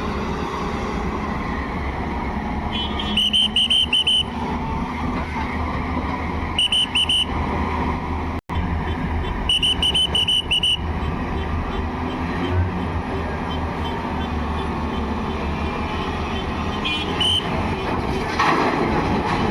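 Heavy diesel machinery running steadily. Several times it is joined by runs of short, high-pitched beeps from a warning beeper, and there is a momentary break in the sound near the middle.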